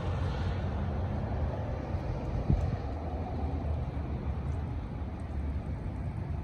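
Steady low rumble of outdoor background noise, with one short knock about two and a half seconds in.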